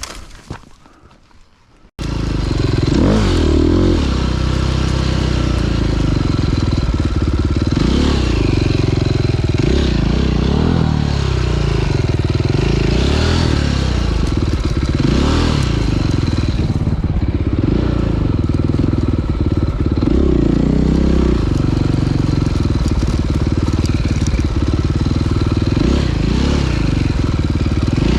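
Dirt bike engine running hard under a rider, revving up and down over and over as the throttle is worked. It starts abruptly about two seconds in, after a quieter moment.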